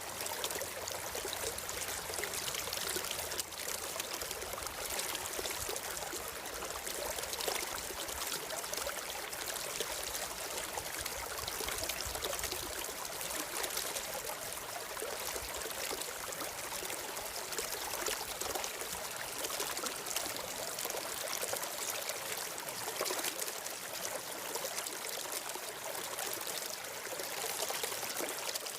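Steady flowing water of a stream, trickling and splashing without a break.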